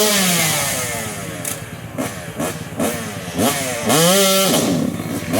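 Dirt bike engine of the 200–250cc class revving in bursts, its pitch rising and falling with the throttle. A rev falls away over about a second and a half, a few short blips follow, then a rev climbs and holds high about four seconds in.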